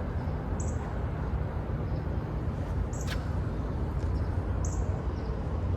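Steady low outdoor rumble with a small bird chirping three times, short high chirps spaced about two seconds apart.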